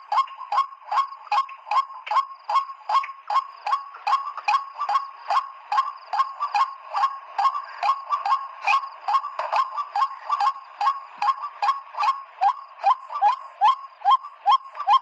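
White-breasted waterhen's 'kruak' call: a short note that rises in pitch, repeated evenly about three times a second, over a steady high tone.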